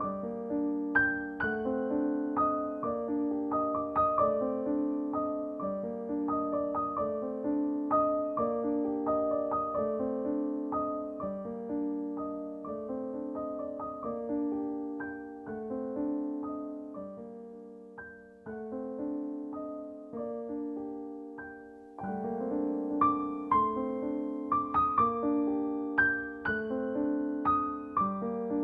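Background music: a slow, gentle piano piece, softer in the middle and fuller again near the end.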